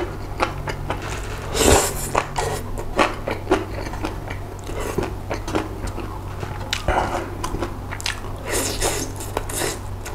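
Close-up chewing of food, with wooden chopsticks clicking and scraping against a nonstick frying pan as scraps of grilled pork roll are picked out, in short irregular clicks and bites.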